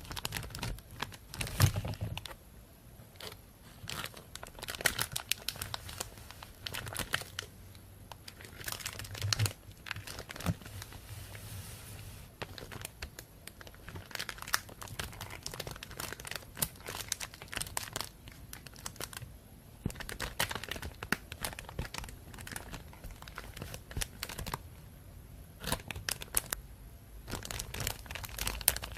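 Plastic bag crinkling and rustling in irregular handfuls, with short quieter pauses between the clusters of crackles.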